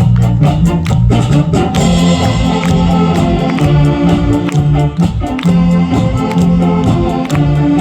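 A saxophone big band playing a live medley of Korean popular songs and trot. A steady drum beat runs over a walking bass line, with the saxophones carrying the melody.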